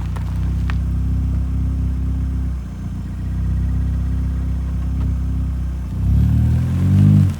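Opel Astra G's Z20LET 2.0 turbo four-cylinder running through its freshly repacked rear silencer, a steady engine note that dips briefly about two and a half seconds in. Near the end the revs climb quickly and then drop off suddenly.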